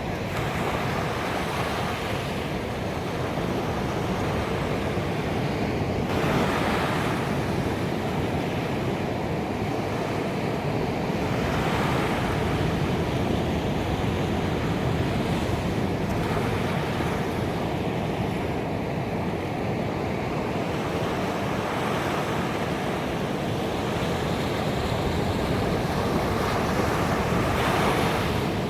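Ocean surf: a continuous wash of waves on a beach, with a louder break swelling up every few seconds.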